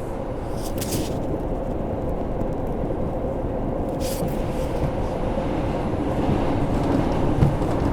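Inside an R142 subway car running between stations in a tunnel: a steady rumble of wheels and traction motors with a constant hum. There are two brief high hisses, about a second in and about four seconds in, and a couple of knocks near the end.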